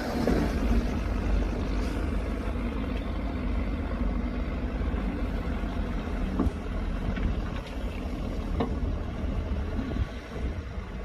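Heavy diesel earthmoving machinery running steadily with a low rumble, with a couple of faint knocks a few seconds apart.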